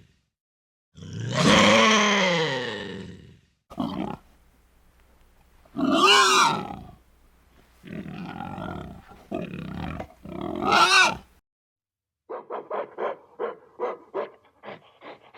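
Animal calls. A long loud call comes first, then several shorter calls and rougher, noisier sounds. After a brief gap comes a quick run of short calls, about four a second.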